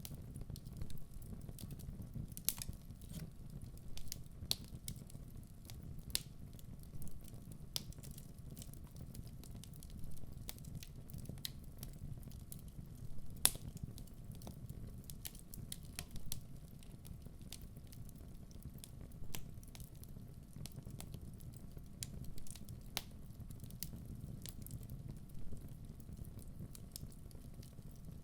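Wood fire burning in a fireplace: a steady low rumble of the flames with irregular sharp pops and crackles from the burning logs, one louder pop about halfway through.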